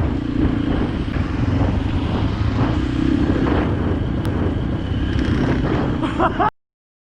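Dirt bike engine running steadily under way, with heavy low rumble on the microphone. The sound cuts off abruptly about six and a half seconds in to dead silence.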